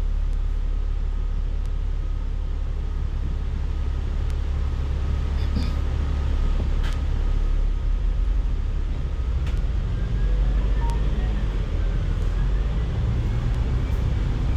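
Hong Kong bus cabin: steady low engine and road rumble, with a faint whine rising in pitch in the second half.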